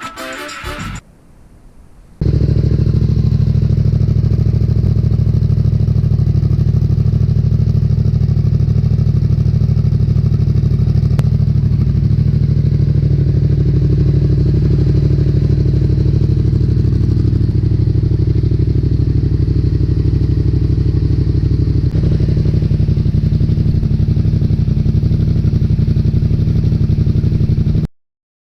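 Yamaha XSR700's 689 cc parallel-twin engine idling steadily through a Black Widow exhaust fitted with its secondary baffle, starting after a brief burst of music fades and cutting off suddenly near the end.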